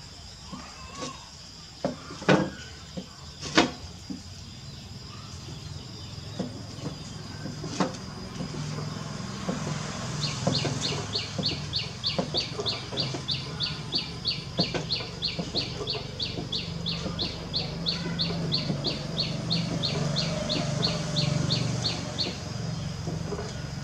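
A bird chirps rapidly, about three calls a second, for around twelve seconds, over a low steady hum. A few sharp knocks come in the first four seconds.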